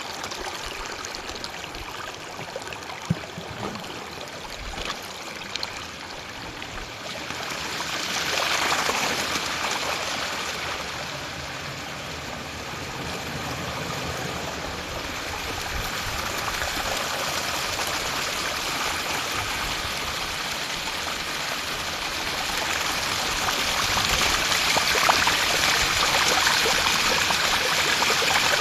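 Stream of running water flowing steadily. It swells about eight seconds in and grows louder again near the end. A few soft low knocks come in the first few seconds.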